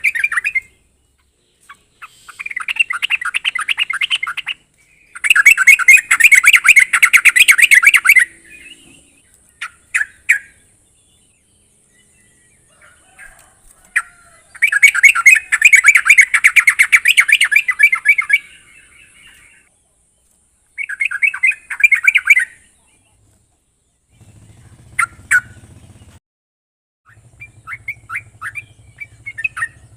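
Yellow-vented bulbul (trucuk) singing: repeated bursts of rapid chattering notes, each lasting one to three seconds with pauses between, breaking into scattered single notes near the end.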